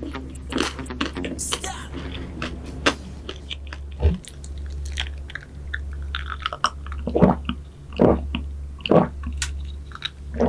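Close-miked eating of pastries: irregular crunchy bites and chewing, with a few louder bites near the middle and end, over a steady low hum.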